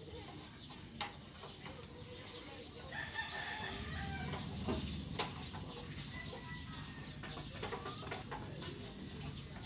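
Faint bird calls in the background, with a couple of sharp clicks, one about a second in and one about five seconds in.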